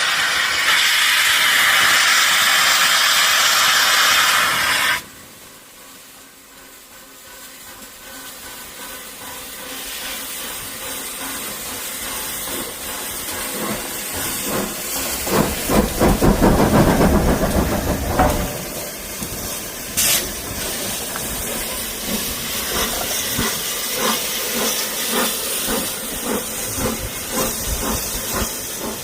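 Peppercorn A1 steam locomotive 60163 Tornado: a loud steam hiss that stops suddenly about five seconds in, then exhaust beats that quicken sharply into a fast, loud flurry as the driving wheels slip, with a sharp crack about twenty seconds in and rapid beats continuing.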